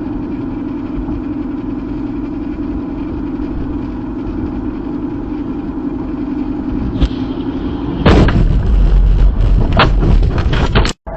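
A car on the road with a steady engine and road drone, then about eight seconds in a sudden loud crash: a burst of noise with several sharp impacts that goes on for about three seconds before cutting off.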